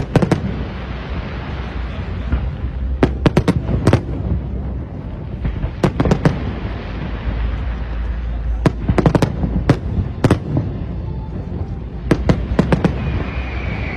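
Fireworks display: sharp bangs in irregular clusters of two to four, a few seconds apart, over a steady low rumble.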